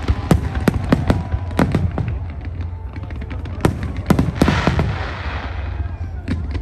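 Fireworks display: a rapid, irregular series of sharp bangs from bursting shells, with a crackling shower about four and a half seconds in, over a steady low rumble.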